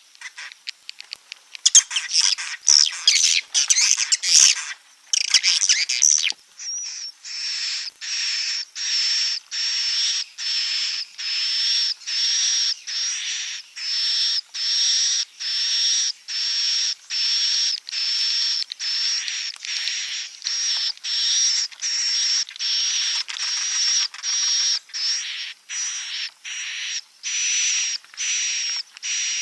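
Swiftlet roosting-call lure recording: a few seconds of dense twittering chirps, then a long run of repeated short buzzy calls, about one and a half a second, each with a steady high whistle through it.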